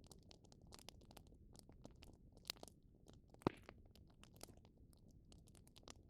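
Wood fire crackling, with frequent small pops over a low, rumbling burn and one sharper pop about three and a half seconds in.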